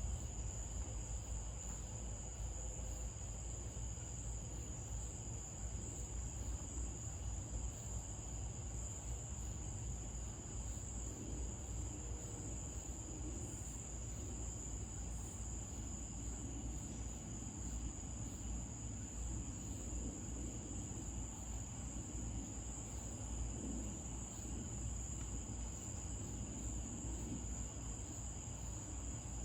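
Night chorus of crickets: a steady, unbroken high-pitched trill over a low rumble.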